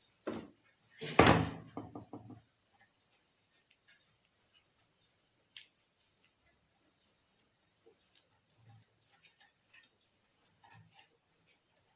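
Insects chirping in a steady, high, pulsing trill, with one loud knock about a second in and a few fainter knocks and clicks of handling afterwards.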